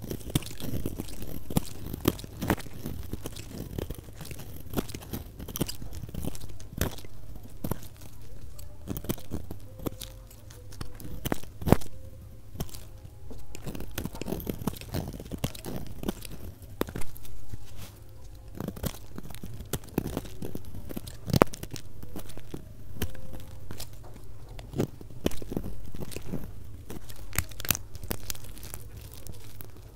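Soap being cut, a steady run of crisp crunching and crackling sped up to double speed.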